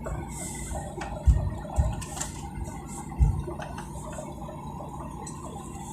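Steady hum of an airliner cabin on the ground just after landing, with three short, dull low knocks in the first half.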